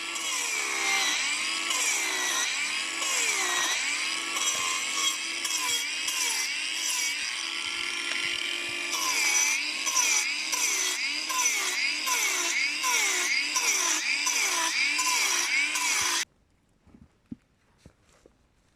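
Saw cutting wood by hand in steady back-and-forth strokes, about two a second, each stroke's pitch rising and falling. It stops abruptly near the end, leaving near silence with a few faint clicks.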